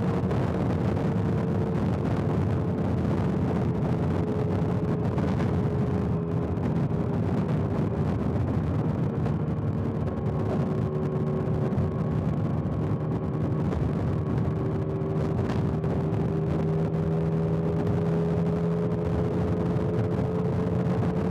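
Motorcycle engine running at highway cruising speed, with wind and road noise. Its pitch sinks slowly through the middle and climbs back again near the end as the bike eases off and speeds up.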